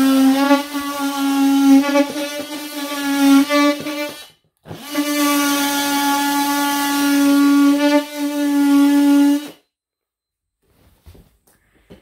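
Electric drill running at a steady speed in two long runs, about four and five seconds, with a brief stop between them; it then stops and a few faint clicks follow.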